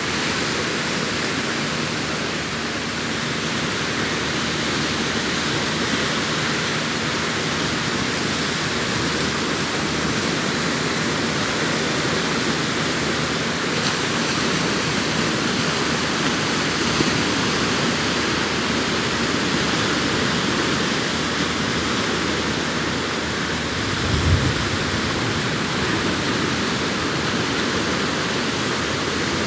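Arabian Sea surf washing continuously onto the beach as an even, steady rush of noise. There is a brief low thump about twenty-four seconds in.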